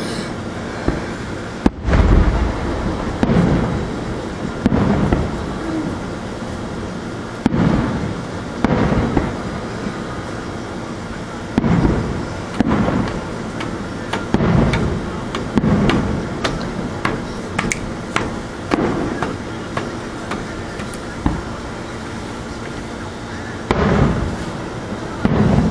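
Aerial firework shells bursting, a deep boom every second or few seconds, each trailing off in an echo, with a quicker run of sharp pops partway through.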